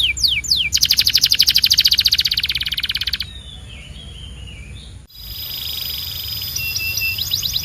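Canary singing: a few quick falling whistles, then a fast, rolling trill lasting about two and a half seconds, then a quieter stretch. About five seconds in the sound breaks off abruptly, and the song resumes with a held high note and short notes building into another run of quick whistles.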